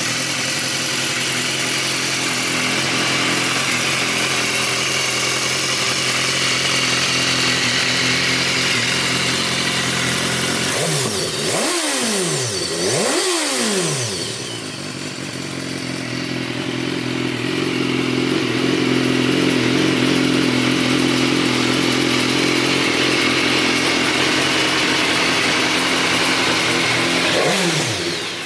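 BMW S1000R's inline four-cylinder engine running steadily at idle, blipped twice in quick succession about halfway through, then settling back to a steady idle, with another short blip near the end.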